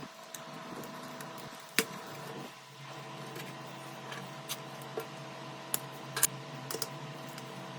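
Sharp clicks and taps of small tools on phone parts, a handful of separate clicks with the loudest about two seconds in and a small cluster near the end, over a steady low hum.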